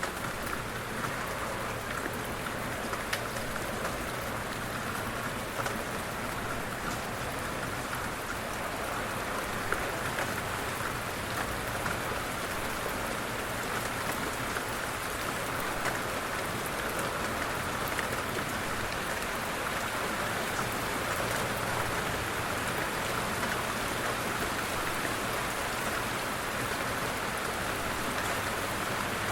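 Light rain falling steadily, a constant hiss of drops with scattered individual drop ticks.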